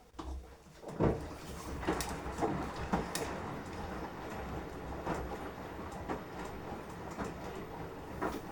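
Beko washing machine drum turning in the wash phase, the laundry tumbling inside. Irregular thumps and knocks sit over a steady low rumble, the loudest knock about a second in.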